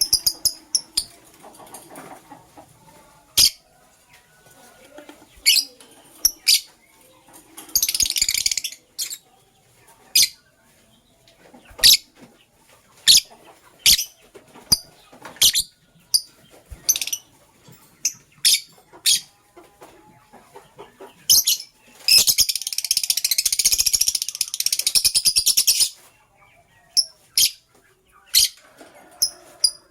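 Lovebirds giving sharp, high single chirps at irregular intervals. About eight seconds in comes a short burst of rapid chatter, and from about 22 to 26 seconds a longer one.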